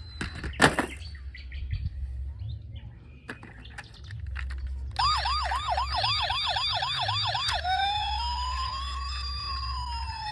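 A toy emergency vehicle's electronic siren: a fast yelp of about five rising chirps a second starts halfway through, then switches to a slow wail that rises and falls. A sharp knock comes just under a second in, and a low hum runs underneath.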